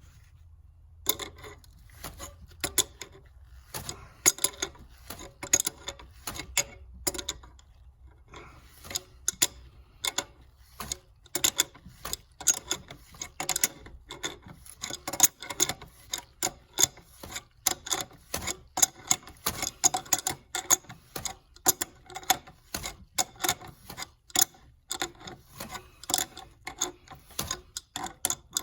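Hand ratchet wrench clicking in quick, irregular strokes, with two short pauses.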